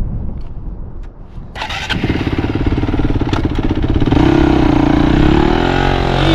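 Small mini bike engine catching about a second and a half in, then running with a steady note and revving up about four seconds in.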